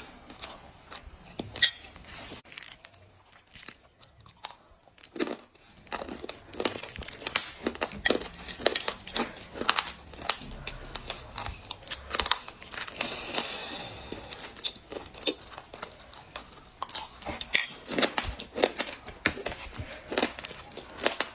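Dry clay crunching as it is bitten and chewed: a long run of sharp crunches, with a quieter stretch about four seconds in.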